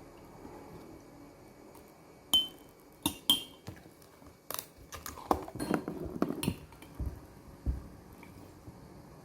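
Hard objects, like glass or crockery, clinking and clattering: two sharp clinks a couple of seconds in that each ring briefly, then a quick run of knocks and clatter, and two dull thuds near the end.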